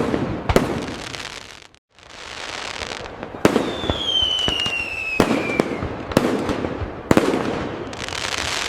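Fireworks display: a run of sharp aerial bursts, each trailing off into crackling, with a brief gap just before two seconds in. A whistling firework's tone falls steadily in pitch from about three and a half to almost six seconds in.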